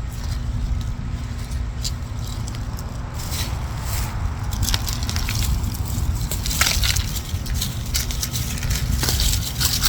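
Crunching and rustling of garden plants being handled and harvested, with sharp crackles that grow denser through the second half, over a steady low rumble.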